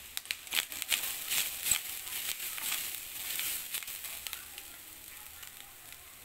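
Grated coconut frying in a little hot oil in a stainless steel pan, crackling and sizzling as a wooden spatula stirs it. The crackles come thick in the first two seconds and thin out and quieten toward the end.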